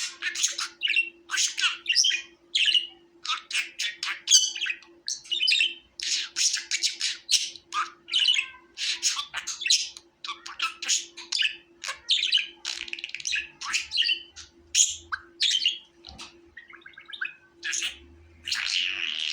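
Budgerigars chattering: a fast, continuous run of short high chirps, squawks and warbles, with a faint steady hum underneath.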